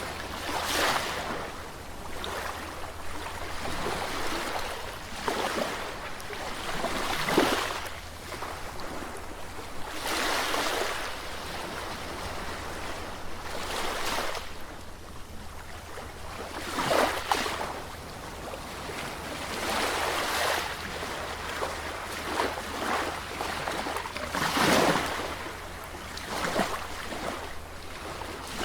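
Sea waves breaking and washing on the shore, a surge of surf every three to four seconds, over a steady low rumble.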